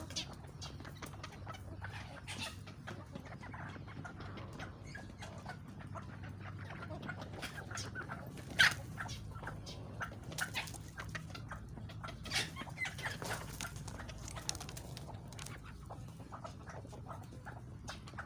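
Chickens clucking, with many short sharp clicks and ticks scattered throughout and a few louder knocks in the middle, over a steady low hum.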